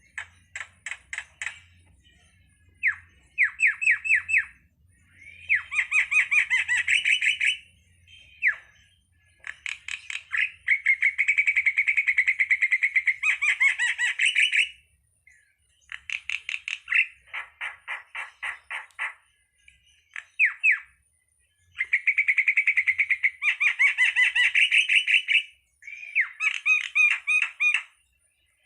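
Jalak (starling) calling in repeated phrases of fast, rapidly repeated notes. Each burst lasts one to three seconds, with short pauses between them.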